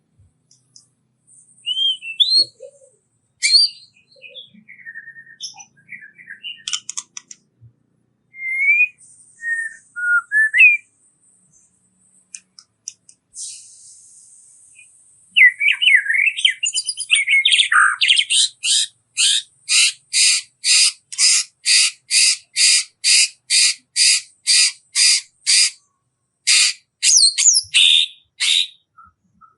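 Songbird song from a masteran bird-training recording. It opens with varied whistles and chirps, has a high thin trill about halfway through, then runs into a long, even series of short rapid-fire notes, about two a second, through the last ten seconds.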